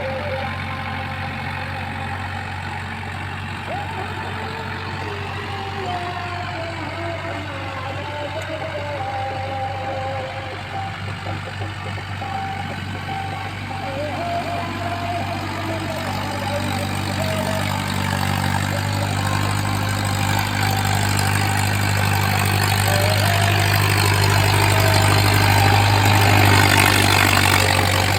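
Mahindra tractor's diesel engine running steadily, growing louder over the second half.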